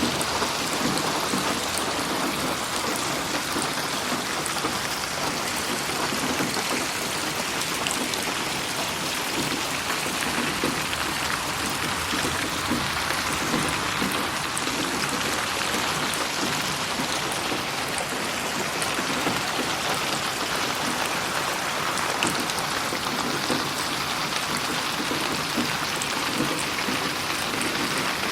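Steady rain falling: an even, dense hiss with fine scattered drop ticks, processed as 8D audio that moves the sound around the listener.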